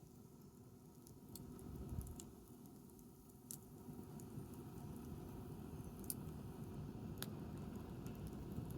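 Wood campfire crackling softly, with about five sharp pops scattered through it.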